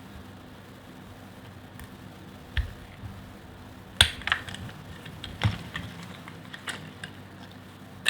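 Knife cutting through a bar of soap, with a few sharp, crisp cracks as cubes break away, spaced a second or so apart and starting about two and a half seconds in; the loudest comes near the middle.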